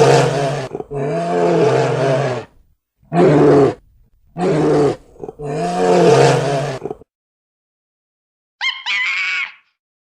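A large animal, a big cat, roaring in a run of long, deep, loud calls, five in all, ending about seven seconds in. After a short silence, a single brief, much higher-pitched animal call follows near the end.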